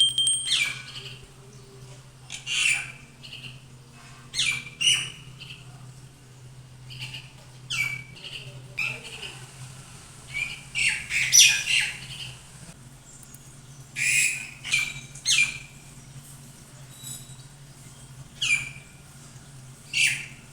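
A small bird giving short, sharp chirps that slide steeply down in pitch. The chirps come singly or in quick pairs, irregularly every second or two, over a steady low hum.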